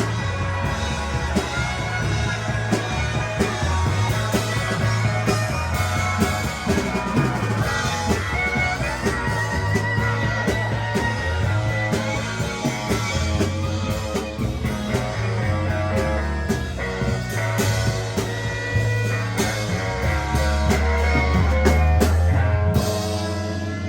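Live psychedelic rock band playing: guitar lines over a heavy bass line and drum kit, getting a little louder toward the end.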